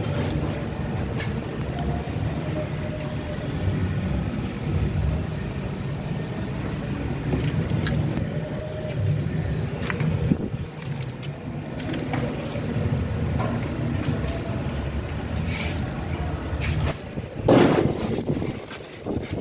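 A machine running with a steady low hum, with a few scattered clicks and a brief, louder rush of noise near the end.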